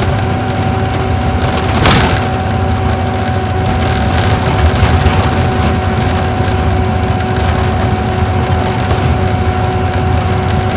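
Isuzu Gala coach with a V-type diesel engine running at a steady speed, heard from inside the cabin: low engine and road rumble with a constant whine. A brief knock about two seconds in.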